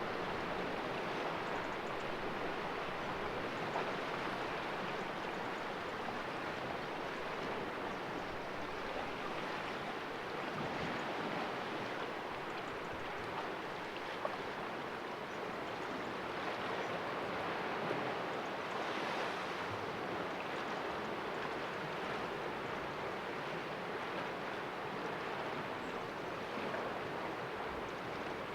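Small sea waves washing and splashing against the rocks of a calm cove, a steady wash that swells and eases gently.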